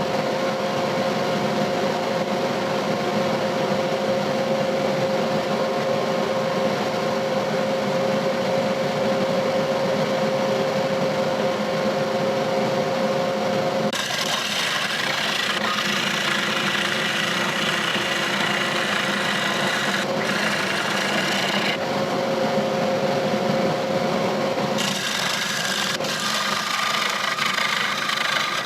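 Laguna Revo 18/36 wood lathe running while a turning tool cuts the rosewood bowl's bottom, a steady motor hum under a continuous scraping, shaving sound. About halfway through, the cutting turns brighter and harsher for roughly ten seconds, then eases.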